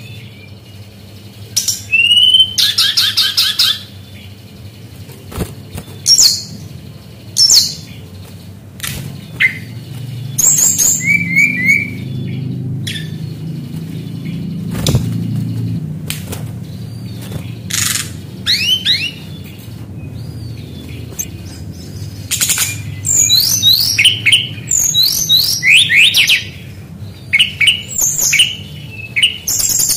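Brown-chested jungle flycatcher singing: short bursts of high, rapid, sliding twittering phrases with pauses between them, coming thickest in the last third, over a faint low hum.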